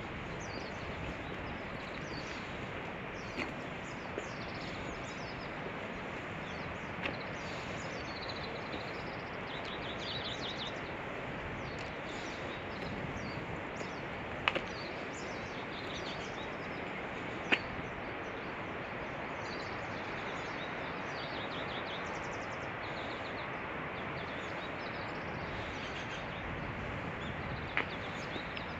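Small birds chirping in short, repeated trills over steady background noise, with a few sharp clicks scattered through.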